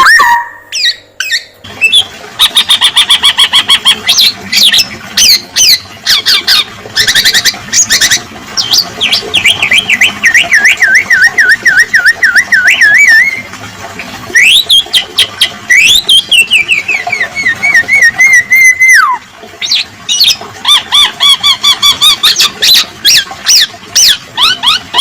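Male black-naped oriole singing a busy song: rapid runs of sharp repeated notes and trills, with a long wavering whistle and a rising-then-falling phrase near the middle.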